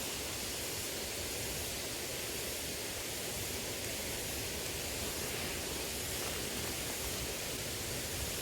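Steady rushing of a small river's flowing water, an even unbroken hiss.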